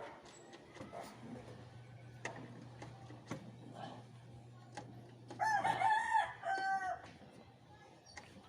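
A rooster crowing once, about five seconds in, a call of under two seconds that breaks into a final held note. Scattered faint clicks and a low steady hum lie beneath it.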